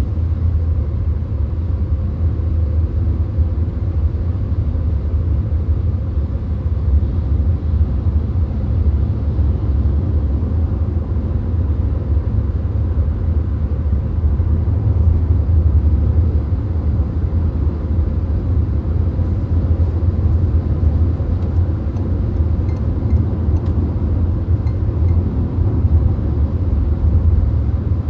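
Steady road noise inside a VW Golf cruising at motorway speed: an even low rumble of tyres and engine with a hiss of wind above it, unchanging throughout.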